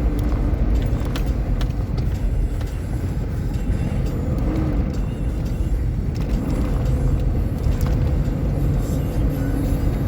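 Steady low rumble of an off-road vehicle driving on the trail, engine and tyre noise with no sharp events.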